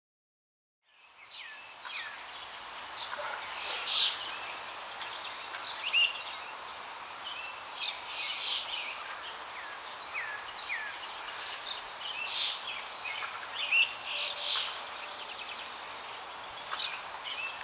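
Birds chirping and calling, many short downward-sweeping chirps from several birds, over a steady outdoor hiss that fades in about a second in.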